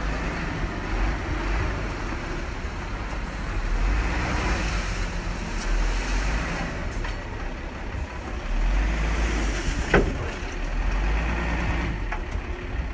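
Bulldozer's diesel engine running with a heavy, steady low rumble that swells and eases as it works, with one sharp metallic knock about ten seconds in.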